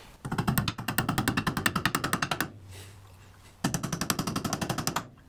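Rapid, evenly spaced metal-on-metal blows, about ten a second, driving a roll pin into a milling machine part. They come in two bursts with a short pause between.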